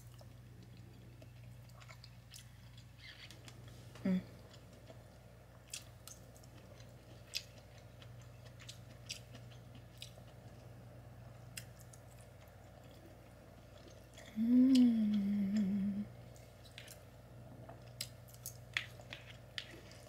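A person chewing a mouthful of kielbasa and sauerkraut, with soft wet mouth sounds and scattered small clicks. About two-thirds of the way through comes a short hummed "mmm", rising then held for about a second and a half, the loudest sound here.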